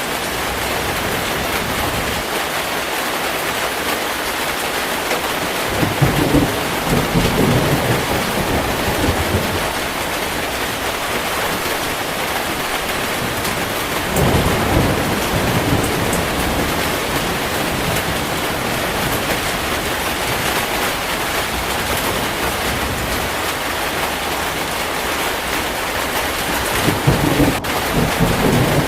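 Heavy rain falling steadily in a thunderstorm, with thunder rumbling three times: about six seconds in, around fourteen seconds, and near the end.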